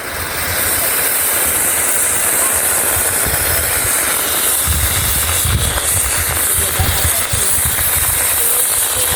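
A ground firework fountain burning with a loud, steady hiss that builds up about half a second in and holds without a break, over an uneven low rumble.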